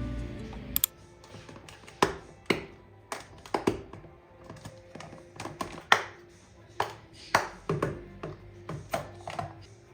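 Acoustic guitar music ends about a second in. Then comes a string of irregular clicks and clinks of dishes and utensils being handled in a kitchen.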